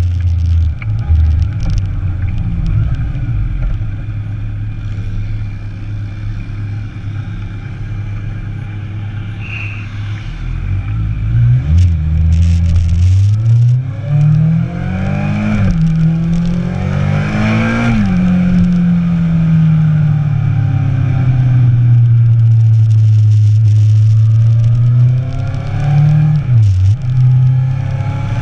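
Motorcycle engine, heard from on board. It runs at a steady low pitch for about the first ten seconds. From about twelve seconds in it accelerates, its pitch climbing in several steps, each cut short by an upshift. It then holds a steady high pitch while cruising, dips briefly near the end and picks up again.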